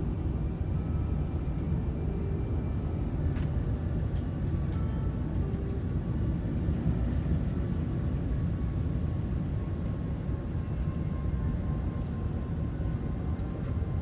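Steady low rumble of cabin noise inside an Airbus A380's upper deck during landing, with faint steady tones and an occasional faint click.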